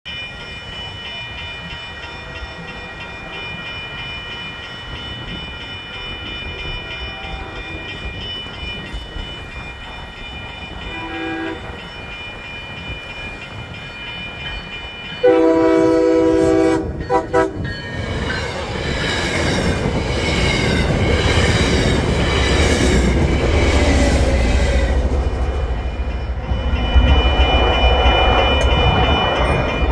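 Grade-crossing bells ringing steadily while an MBTA commuter train led by an HSP46 diesel locomotive approaches. A short, faint horn sounds about 11 seconds in, and a loud chord horn blast lasting about two seconds comes about 15 seconds in. The locomotive and coaches then pass close by with a rising rumble and wheel noise.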